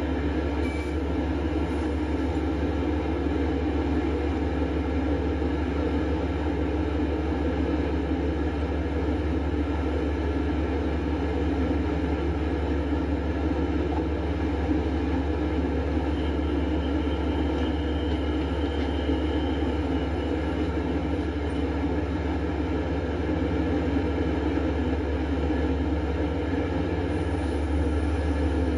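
Metro-North commuter train alongside the platform, giving a steady low drone that stays at one level throughout. A faint high thin tone sounds for a few seconds just past the middle.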